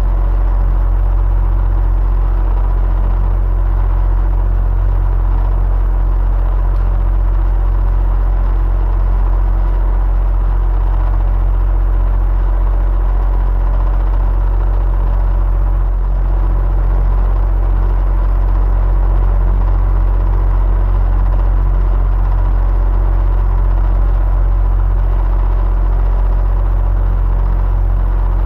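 Electric fan running steadily: a constant low hum with a faint whir of the blades and a few steady tones above it.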